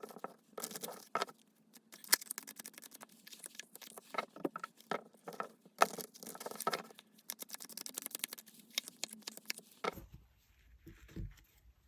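Tarot cards being shuffled and handled: a dense, irregular run of soft clicks and flicks of card on card. About ten seconds in the sound changes abruptly to sparser handling noise.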